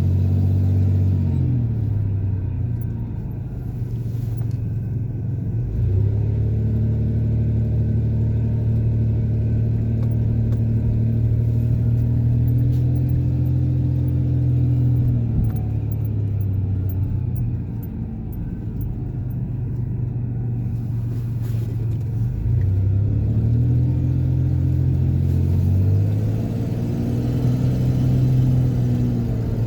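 Truck engine heard from inside the cab while driving, its pitch rising and falling several times as it speeds up, shifts and slows.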